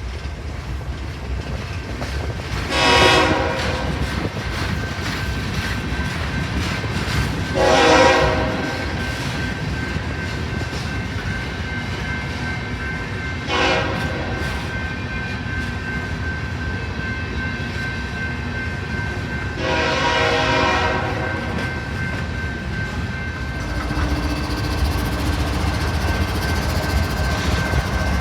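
Train horn sounding the grade-crossing pattern: long, long, short, long. A steady low rumble of the train runs underneath and swells near the end as the train draws close.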